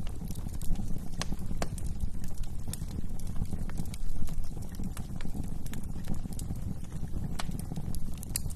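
Wood fire burning in a fireplace: a steady low rumble of flames with scattered sharp crackles and pops from the burning logs, coming at irregular intervals.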